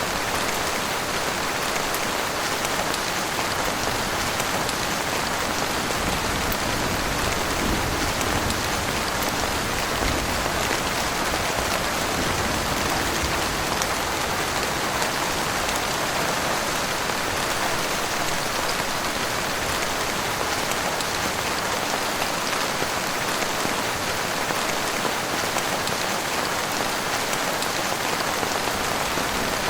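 Heavy rain falling steadily, a dense even hiss of countless drops that does not let up.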